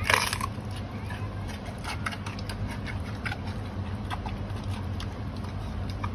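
Giant panda biting and chewing bamboo: a loud crack of bamboo splitting at the start, then scattered crunches and snaps over a steady low hum.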